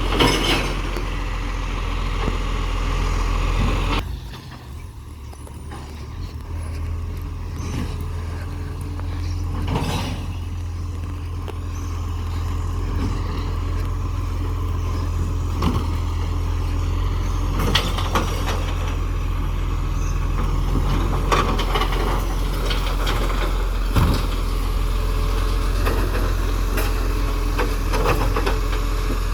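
Recycling truck's engine running with a low steady hum. It drops away about four seconds in and builds back up over several seconds, with a few sharp knocks along the way.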